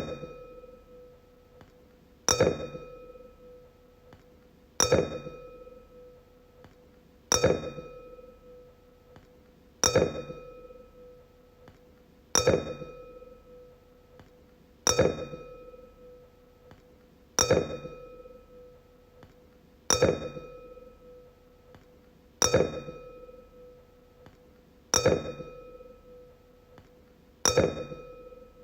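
A wine glass struck about every two and a half seconds, a dozen times. Each tap rings out in a clear tone with fainter higher overtones, fading away before the next tap.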